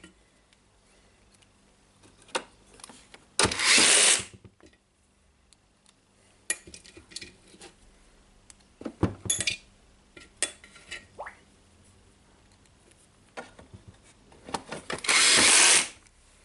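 An electric drill-driver runs in two short spurts of about a second each, once near the start and once near the end, driving screws into the plastic housing of a DeWalt site radio. Between them come scattered clicks and knocks of plastic parts being handled.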